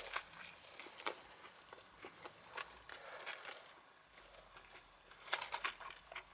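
Faint chewing and mouth noises from a person eating a sandwich: scattered soft clicks and crackles, with a short cluster of louder ones about five seconds in.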